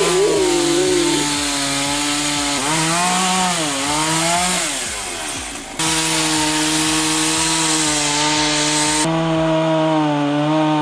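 Chainsaw running at high revs. Its pitch sags and recovers as it bogs under load between about three and five seconds in, and the sound jumps abruptly twice, near six and nine seconds.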